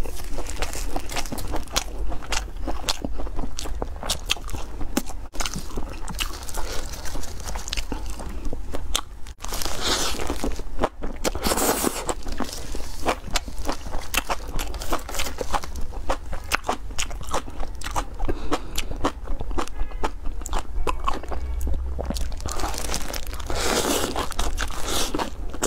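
A person chewing and crunching grilled skewered food close to the microphone: a dense run of crisp clicks, with louder bites about ten seconds in and again near the end.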